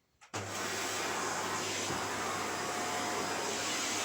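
Shark upright vacuum cleaner switched on about a third of a second in, its motor then running steadily with a loud even rush of air over a low hum.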